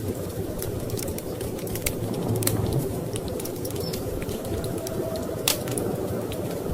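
Wood fire crackling with irregular sharp pops, one louder pop about five and a half seconds in, over a steady low rumble of storm wind.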